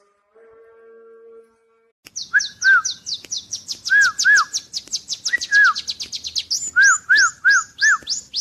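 Small birds chirping: from about two seconds in, a fast run of high, falling chirps, mixed with slower, lower arched notes. A brief steady low hum comes before it.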